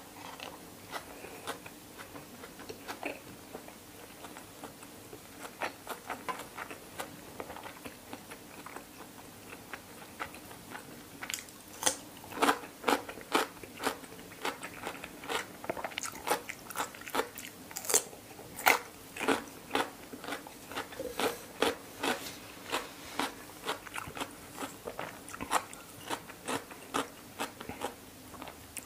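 Close-up eating sounds: soft chewing of sticky rice and liver salad at first, then from about eleven seconds in, loud crisp crunching of raw cucumber at about two bites a second.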